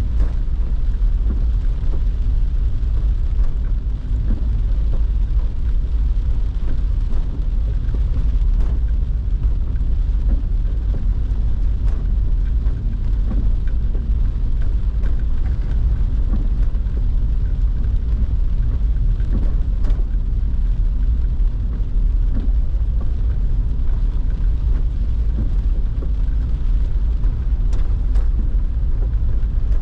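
Car driving in the rain: a steady, loud low rumble of road and engine noise with a hiss of rain and wet tyres, and a few faint ticks of drops.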